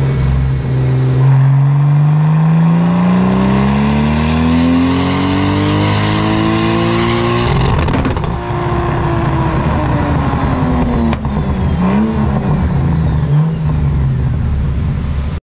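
2001 Toyota Supra's twin-turbo 2JZ-GTE straight-six on a rolling-road dyno: the revs climb steadily for about seven and a half seconds, then the throttle is lifted and the revs fall away, with a high whine rising and falling along with the engine. The sound cuts off abruptly near the end.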